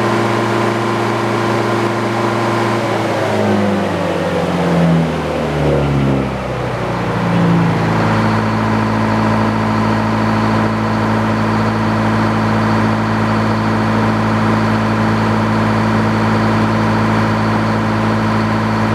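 The engine powering a Frick sawmill runs steadily. From about three to eight seconds in its pitch wavers and slides, then it settles back into a steady run.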